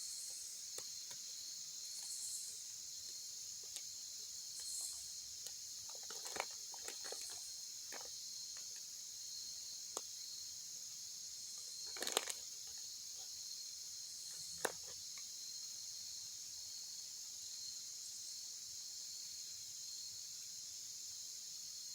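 Steady high-pitched chorus of insects trilling, with a few faint clicks and knocks of handling, the loudest about twelve seconds in.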